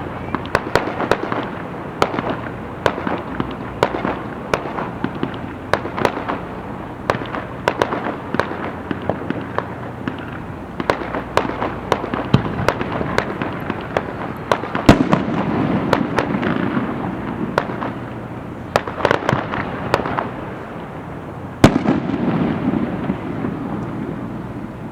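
Aerial fireworks display: many sharp cracks and pops in quick succession, with two louder, heavier bursts about fifteen and twenty-two seconds in, each followed by a low rumble.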